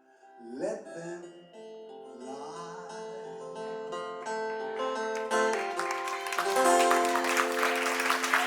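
Guitars play the closing notes of a song, with a sliding note near the start and long held chords. Audience applause and cheering rise over the last notes from about five seconds in.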